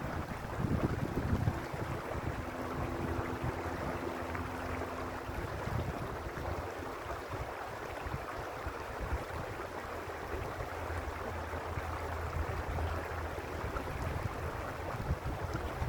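Creek water running steadily, a continuous rush. Low gusts of wind rumble on the microphone, strongest at the start. A faint steady hum comes in for a few seconds early on and again in the middle.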